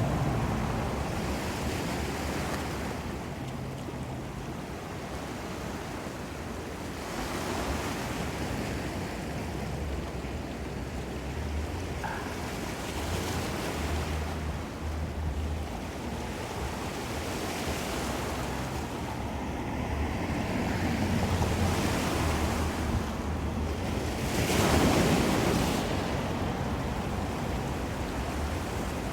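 Ocean waves breaking and washing ashore, swelling in louder surges every several seconds, the biggest near the end, with a low rumble of wind on the microphone.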